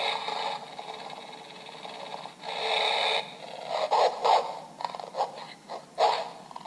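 The 'Vicious Dog' sound effect of a Spirit Halloween Xtreme Haunted Sound FX Box: a recorded dog snarling and growling, played through the box's small speaker, thin with no bass. Long rough growls give way about four seconds in to a run of short, choppy snarls.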